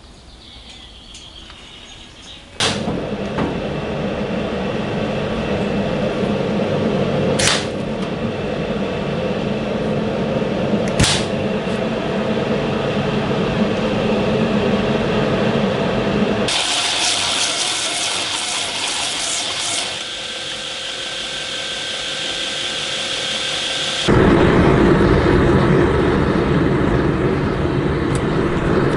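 Shop machinery running during knife making: it starts abruptly about three seconds in, a high hiss with a steady whine takes over in the middle, and a louder, fuller noise starts near the end.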